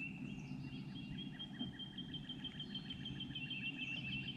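A songbird singing a long, rapid trill of repeated high notes that stops near the end, over a low steady hum.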